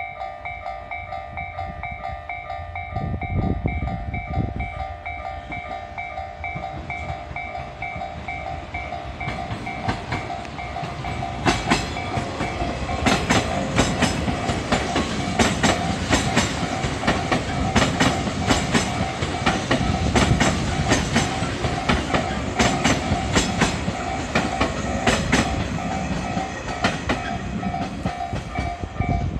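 Japanese level-crossing warning bell ringing steadily in a repeating ding-ding. A 485-series electric train approaches, then from about twelve seconds in runs past with its wheels clattering over the rail joints, the loudest part.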